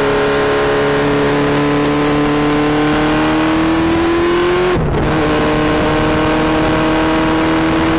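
Suzuki Hayabusa's inline-four engine pulling under steady acceleration, its pitch rising slowly for about five seconds. Then a quick upshift, and the note settles lower and steady.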